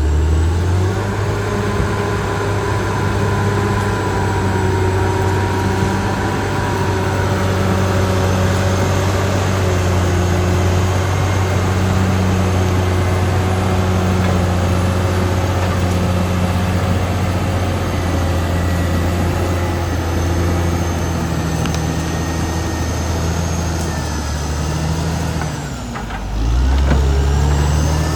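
Caterpillar D6R XL bulldozer's diesel engine running steadily under work, with a deep hum that wavers slightly in pitch. Near the end the sound dips briefly and comes back.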